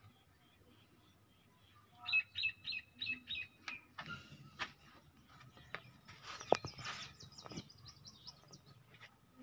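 Small birds chirping: a run of about five quick, evenly spaced chirps about two seconds in, then a faster string of short high notes later on, with a few sharp clicks in between, the loudest about six and a half seconds in.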